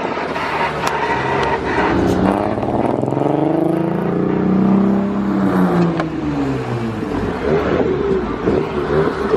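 A car engine revving, its pitch climbing for a couple of seconds and then falling back.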